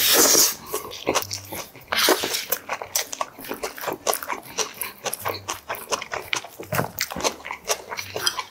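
Close-miked chewing of a mouthful of cockle bibimbap: a dense run of wet clicks and smacks, with a louder rush of noise at the start and again about two seconds in as spoonfuls go in.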